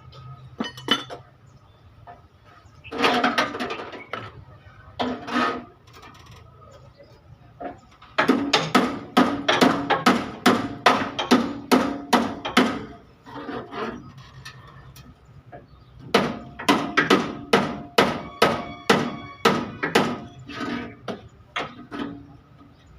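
Hammer blows on sheet steel, beating out dented truck bodywork. They come in two long runs of rapid strikes, about two or three a second, each strike ringing metallically. A couple of shorter, duller knocks come earlier.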